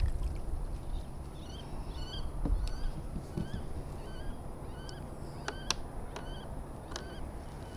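A bird calling over and over in short, rising chirps, one or two a second, with a few sharp clicks in the second half.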